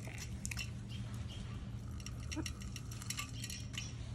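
Quick, irregular light clicks and taps over a steady low hum.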